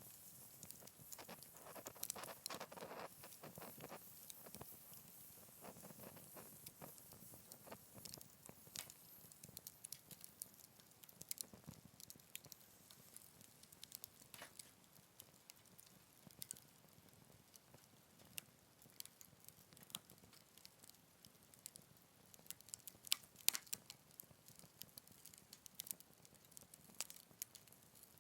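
Wood campfire crackling softly, with irregular small pops and snaps and a short cluster of louder pops near the end.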